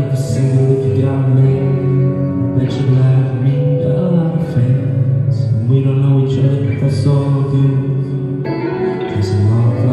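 Guitar music with no words: chords strummed every second or two over sustained low notes.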